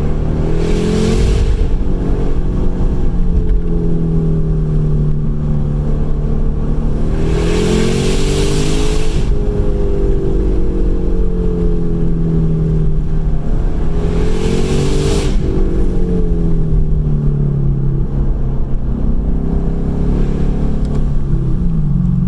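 Straight-piped Lexus IS-F's 5.0-litre V8 exhaust droning steadily, then rising and falling in pitch four times, roughly every six to seven seconds, as the engine is revved and eased off through gear changes. A hissing rush comes with each rise.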